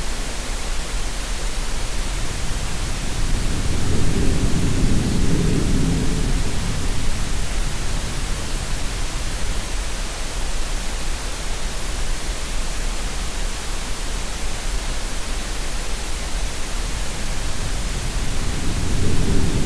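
Steady synthetic green-noise hiss mixed with sea sound. A low swell of water wash rises about four seconds in, fades after a few seconds, and builds again near the end.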